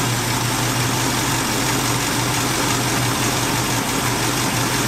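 Worn old truck engine idling steadily at operating temperature with an even low hum, while its carburetor's idle mixture screws are turned to set the idle mixture.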